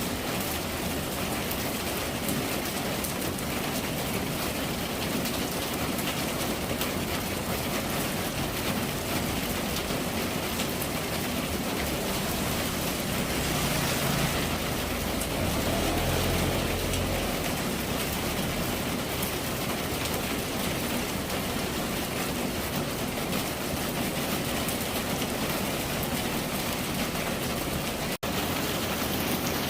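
Steady rain falling, an even hiss of drops. Midway a low rumble swells for a few seconds, and near the end the sound cuts out for an instant.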